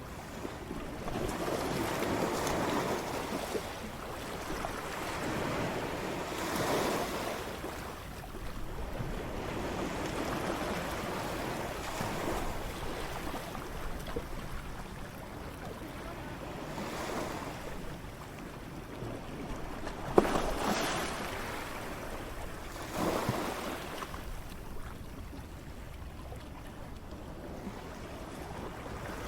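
Ocean waves breaking on a shore, a wash of surf that swells and falls back every few seconds, with one sharper crash about two-thirds of the way through.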